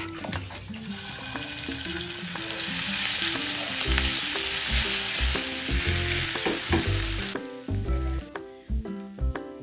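Ground shallot and garlic paste sizzling in hot oil in a nonstick wok as it is sautéed and stirred with a silicone spatula. The sizzle starts about a second in, swells, and cuts off suddenly about seven seconds in.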